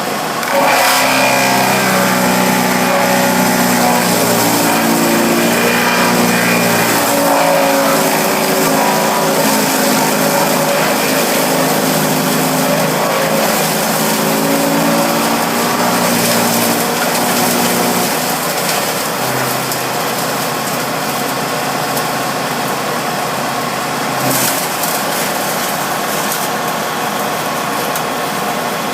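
Bearcat wood chipper's engine running loudly. For roughly the first eighteen seconds its pitch wavers up and down, then it settles to a steady run.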